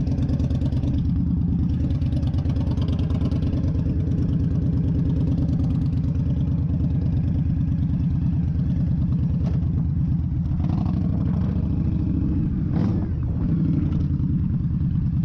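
Indian Scout Bobber's V-twin engine running steadily with a dense, even firing pulse, heard through a helmet-mounted camera. There is a brief dip in engine sound about thirteen seconds in.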